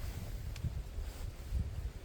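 Wind buffeting the microphone in an uneven low rumble, over a faint steady hiss of outdoor background, with one faint click about halfway through.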